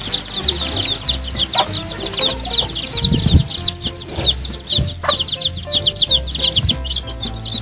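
A flock of young chicken chicks peeping constantly: many short, high cheeps falling in pitch, overlapping several times a second.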